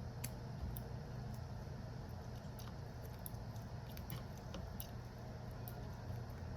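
Light, irregular clicks and ticks of small tools and phone parts being handled during a smartphone battery replacement, over a steady low hum.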